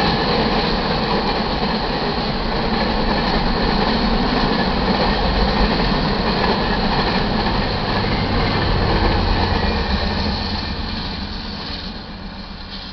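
Freight cars of a manifest train rolling past over a grade crossing, steel wheels running on the rails. The noise is steady and loud, then fades over the last few seconds as the end of the train goes by.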